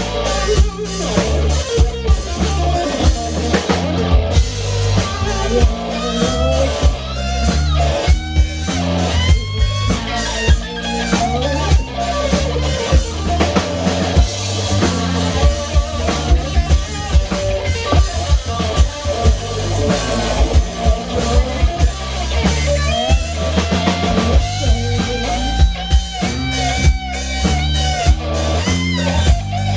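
A rock band playing: drum kit with a steady beat and bass drum hits, electric guitar and bass guitar, with gliding melodic lines above.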